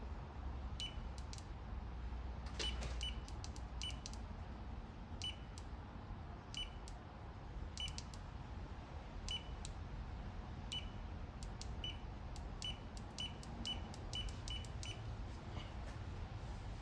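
Hand ratchet clicking as it is worked on bolts: single metallic clicks and small quick clusters at irregular intervals, each with a short ring, over a low steady hum.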